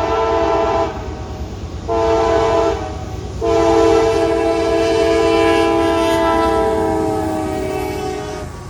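Multi-chime air horn on CSX's lead GE AC44CW locomotive sounding the end of the long-long-short-long grade-crossing signal: a long blast cuts off about a second in, a short blast follows, then a final long blast fades away near the end. A steady low diesel rumble from the passing train runs underneath.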